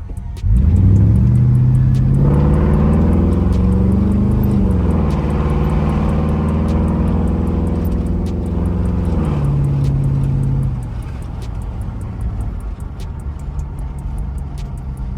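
Car engine revved up from idle about half a second in and held at raised revs for several seconds, the pitch sagging and surging again, before dropping back to idle about eleven seconds in. The engine is being diagnosed after an overhaul for a rough idle and poor acceleration.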